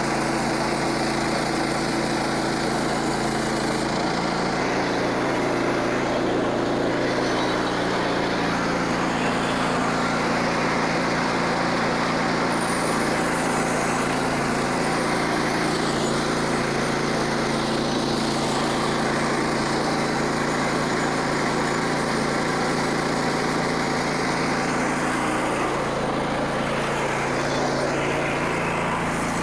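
Frontier OS27 portable bandsaw mill cutting slowly through a knotty pine log: the small gas engine runs steadily under load under the hiss of the blade in the wood. The engine's pitch shifts a little about four seconds in, again a few seconds later, and near the end.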